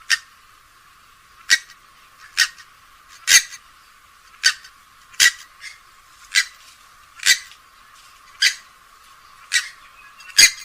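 Recorded calls of a rail-family waterbird: a series of about eleven short, sharp, high-pitched calls, roughly one a second.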